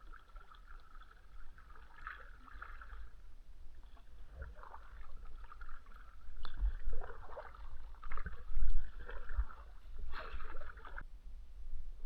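Kayak on the water: uneven splashing and dripping of water, getting busier and louder in the second half, with a few low thumps and a steady low rumble underneath.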